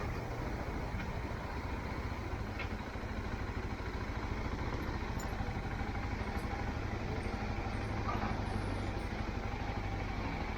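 Motorcycle running steadily, a low engine hum under an even rush of noise.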